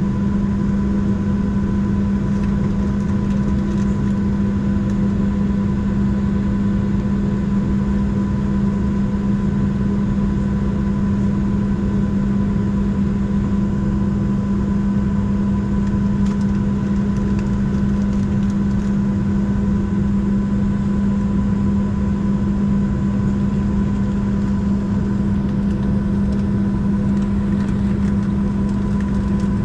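Steady cabin drone of a Boeing 737-700 on the ground before takeoff, its CFM56 engines at idle with air-conditioning airflow. There is a strong low hum and a fainter higher whine, and neither changes.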